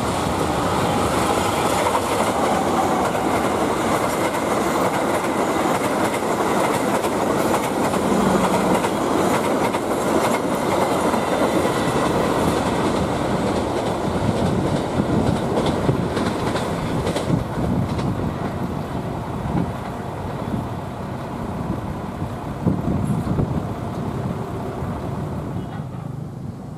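Locomotive-hauled passenger train running through at speed: a loud, steady rush of wheel and running noise, with the wheels clattering over the rail joints.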